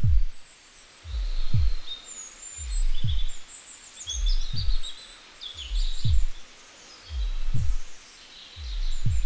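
Slow heartbeat sound effect: a deep double thump repeating evenly about every second and a half, with birds chirping faintly above it.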